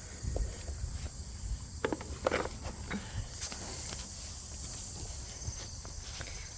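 Steady high chirring of insects, with footsteps and a few short knocks and rustles about two seconds in.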